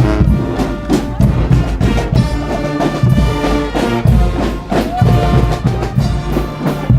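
Brass band playing loudly, with trumpets and trombones over a pounding drum beat.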